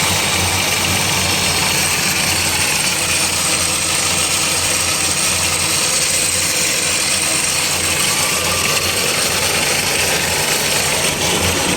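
Kubota B1500 compact tractor's diesel engine running steadily with the revs held up and a gear selected, the clutch held down, while the noisy transmission is being checked.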